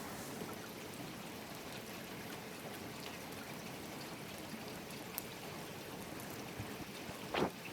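Steady rain with running, trickling water and scattered drips. A single louder short sound comes near the end.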